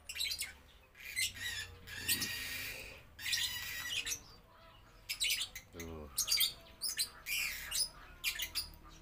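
Birds chirping in short repeated bursts, mixed with a metal spoon scraping and clinking against a ceramic bowl. A short low voice sound comes about six seconds in.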